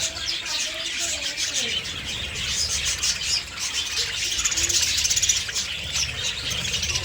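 Budgerigars chattering and chirping, with many short twittering calls overlapping without a break, over a low rumble.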